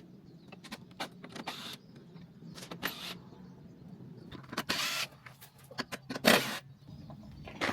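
Work on a truck's front end: several short whirring bursts of a power tool such as a cordless impact or drill, the longest about half a second, among many sharp clicks and clanks of tools and metal parts, over a steady low hum.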